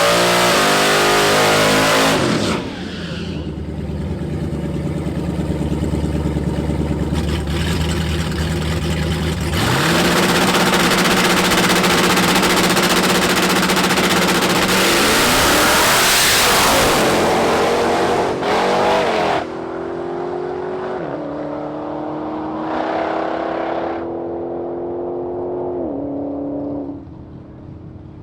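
A drag car's 800-horsepower Hemi V8 at full throttle down the strip, its pitch climbing and dropping several times. About 19 seconds in it goes quieter, with the pitch falling as the driver lifts off and coasts.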